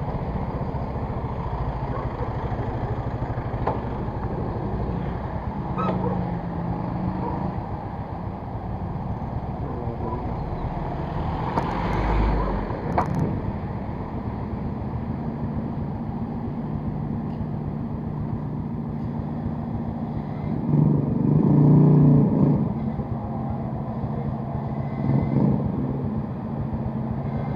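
Motor vehicle engine running steadily with road noise. A couple of sharp clicks come about halfway through, and a louder vehicle sound swells and fades about three quarters of the way through.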